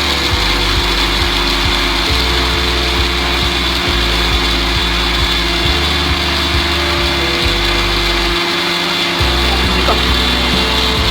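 Electric mixer grinder running steadily, grinding the tomato chutney, over background music with a repeating bass line.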